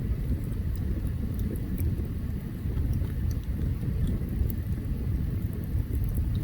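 Open campfire burning: a steady low rushing noise with scattered small crackles and pops from the burning wood.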